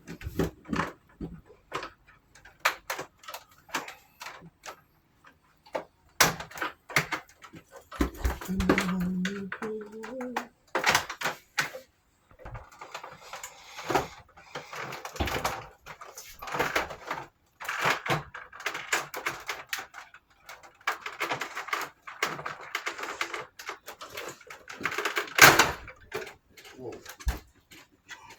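Irregular clicks and knocks of plastic air-conditioner parts being handled and pried apart, with stretches of rustling in between.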